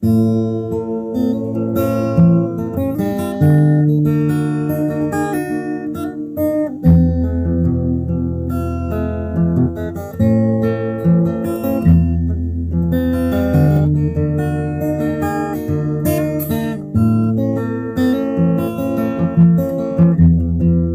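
Background music of strummed and plucked acoustic guitar, chords changing every second or two.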